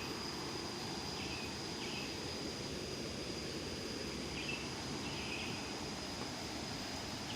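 Outdoor ambience of steady rushing noise, with a constant high insect whine and a few short chirps scattered through it.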